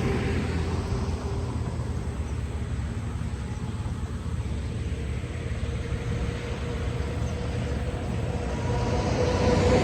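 Steady low rumble of a vehicle being driven, engine and road noise. Near the end it grows louder and a steady humming tone comes in.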